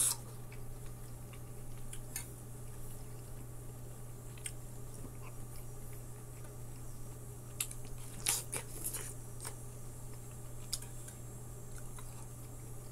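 Close-up biting and wet chewing of soft orange-fleshed melon: scattered mouth clicks and squishes, with a louder cluster of bites about eight seconds in. A steady low hum runs underneath.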